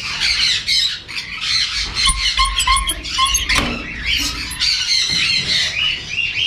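Many caged parrots squawking and chattering without a break, with a few short lower whistled notes about two to three seconds in and a single knock about halfway.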